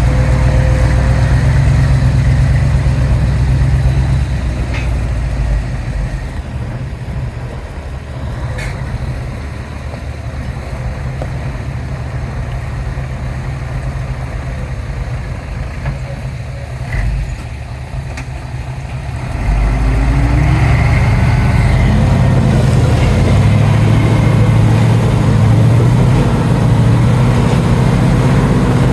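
Heavy diesel engines of a dump truck and a crawler bulldozer working. The engines run loud, ease off for a stretch, then rev up again about twenty seconds in, with a few short knocks along the way.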